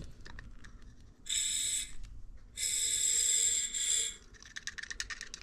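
Aerosol can of Sta-Bil fogging oil sprayed in two hissing bursts, a short one and then a longer one, into the spark plug holes of a Yamaha V-Max outboard to coat the cylinders for storage. A few light clicks follow.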